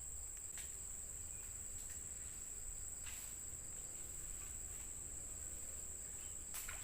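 A chorus of crickets or similar insects gives a steady, unbroken high-pitched trill, with a few faint clicks.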